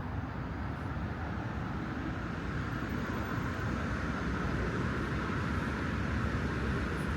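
Steady rumble of city traffic, growing slowly louder.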